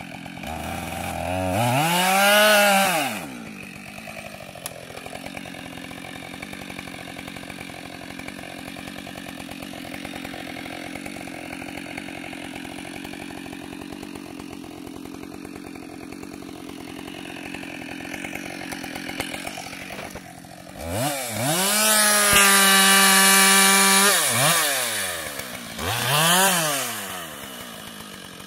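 Husqvarna 572 XP two-stroke chainsaw revved up and back down about two seconds in, then idling for a long stretch. Near the end it revs up again, holds at high speed for a couple of seconds, and is blipped once more.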